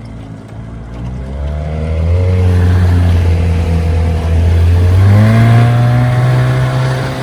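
1969 Johnson 9.5 hp two-cylinder two-stroke outboard motor running under way, its pitch and loudness rising as the throttle is opened about one and a half seconds in, then rising again about five seconds in.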